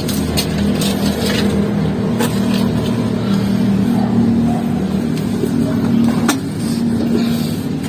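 Electric water pump running with a steady motor hum, with a few light clicks. It is a pump that fails to switch off automatically, and its pressure gauge is not rising.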